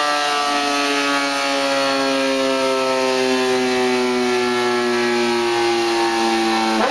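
Kawasaki ZX-10R World Superbike's inline-four engine running at high revs on a dyno, its pitch sinking slowly and steadily.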